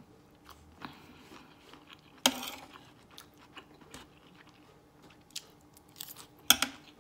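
Close-up chewing and crunching of a mouthful of lettuce and shrimp stir fry, with small wet clicks throughout and two louder sharp bites or spoon clicks, one about two seconds in and one near the end.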